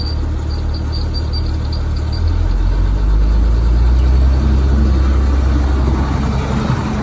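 School bus diesel engine idling steadily after a cold start; about two seconds in its low rumble shifts and grows slightly louder.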